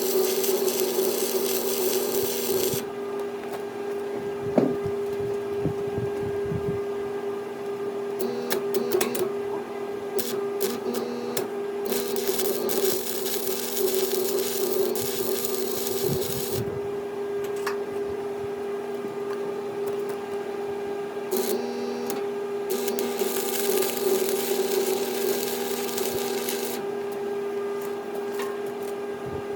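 Welding on steel, the arc sizzling and crackling in runs of a few seconds with pauses between them. A steady machine hum sounds underneath throughout. Scattered clicks fall in the pauses.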